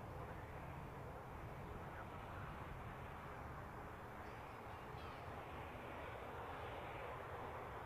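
Airbus A380's four turbofan jet engines heard at a distance as a steady, even noise with no distinct pitch.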